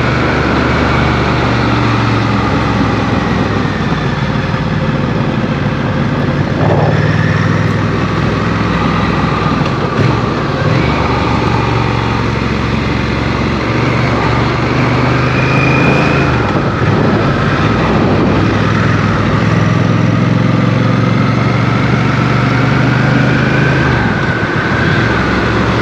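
Motorcycle engine running on the move, its pitch rising and falling slowly as the throttle opens and closes.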